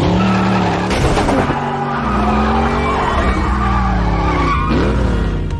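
Car-chase sound effects from a film soundtrack: car engines revving up and down with tyres skidding and squealing.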